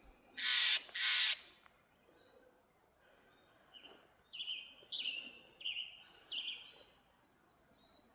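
Wild birds calling: a run of about five downward-slurred calls in the middle, over faint, high, repeated chirps from a smaller bird. Two loud, short, hissing bursts come about a second in and are the loudest sounds.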